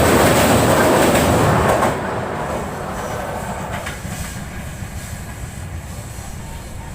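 Express passenger train running at speed across a steel girder bridge, wheels clattering over the rail joints. The loud rush drops sharply about two seconds in and then fades steadily as the train draws away.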